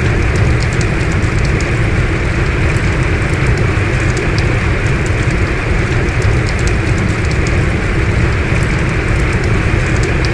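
Heavy rain falling steadily: a dense, even noise with a strong low rumble and scattered sharp ticks of individual drops.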